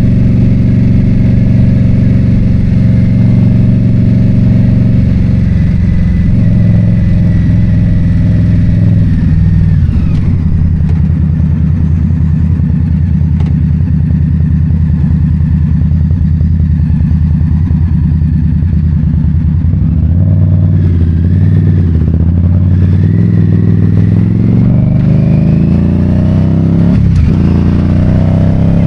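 Motorcycle engine running on the road, holding a steady pitch, changing about a third of the way through, then rising as it accelerates near the end.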